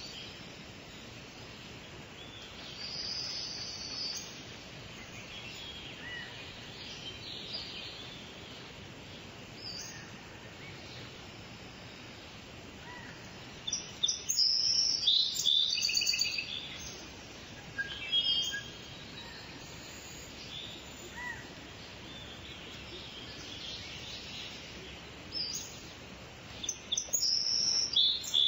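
Wild birds singing and chirping over a steady background hiss, with the loudest bursts of song about halfway through and again near the end.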